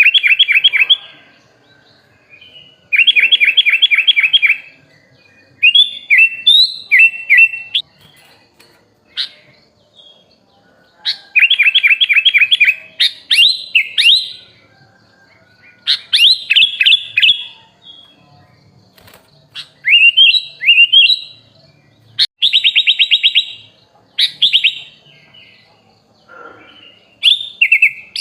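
A kutilang, a bulbul, singing in bursts. It gives rapid trilled runs of repeated notes and quick slurred whistles, each phrase lasting a second or two, with short pauses between them.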